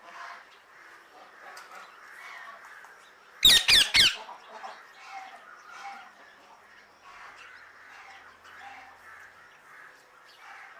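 Birds chattering and chirping softly, broken by three loud, harsh squawks in quick succession about three and a half seconds in.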